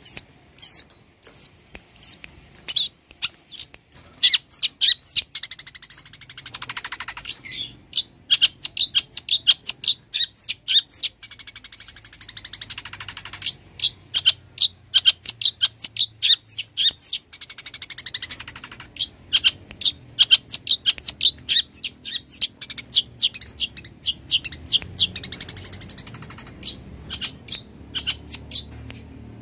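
Long-tailed shrike (cendet) in full song: a rapid, unbroken run of short, sharp, high chattering notes, a few a second, broken now and then by harsh raspy stretches.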